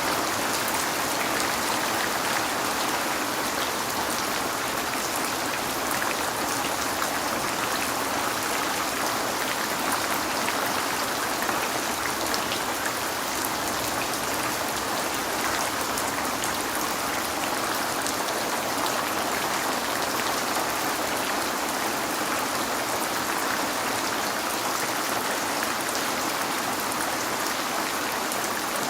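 Steady rain falling and pattering on a window, a dense even hiss with scattered drop ticks and no breaks.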